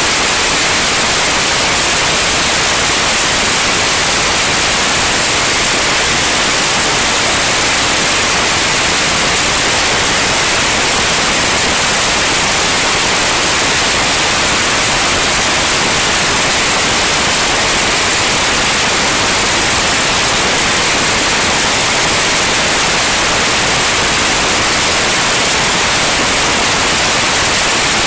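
Steady, loud hiss that does not change.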